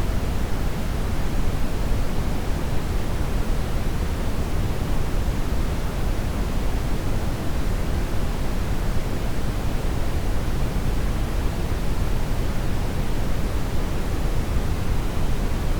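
Steady brown noise: a continuous, even hiss weighted heavily toward the low end, without change.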